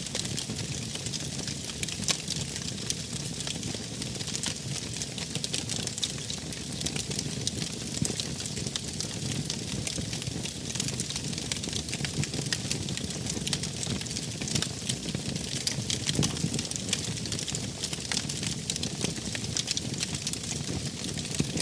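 Wood fire burning, crackling steadily with many small pops and snaps over a low rushing of the flames.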